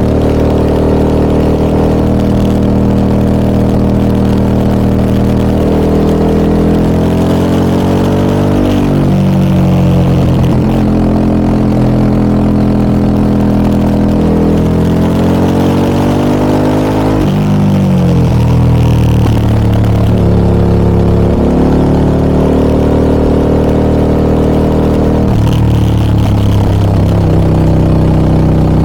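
Harley-Davidson Pan America 1250 Special's Revolution Max 1250 V-twin with an aftermarket Scorpion exhaust, ridden on the road. The engine note climbs steadily under throttle, then drops back sharply, several times over.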